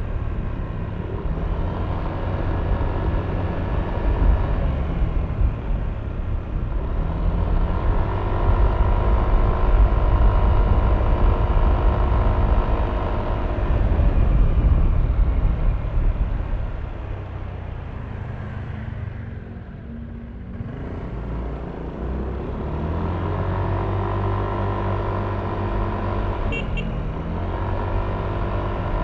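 Yamaha Aerox V3 scooter's single-cylinder engine heard from the rider's seat with road rumble. It pulls up in pitch and eases back, drops to its quietest briefly about two-thirds of the way through as the scooter slows, then picks up again.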